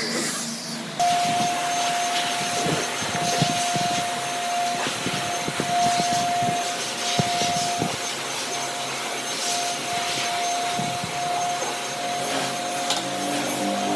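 Power tool running with a steady high whine over a rough rushing noise and occasional scrapes, as of wood being worked. It starts abruptly about a second in.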